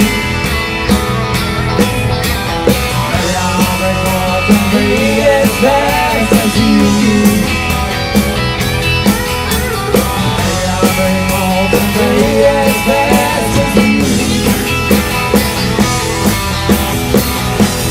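A rock band plays an instrumental passage of the song: a drum kit keeps a steady beat under melodic guitar lines.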